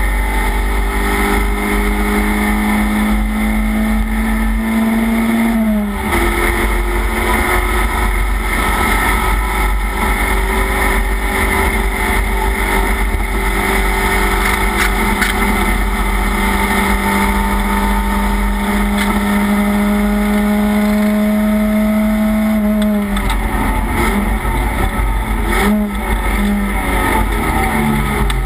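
Race car engine at high revs, heard from inside the stripped, caged cockpit. The pitch climbs slowly, drops sharply about six seconds in as it shifts up, then climbs again for a long stretch. Near the end it falls away with a few quick rises and falls in pitch as the car slows, over steady road and wind noise.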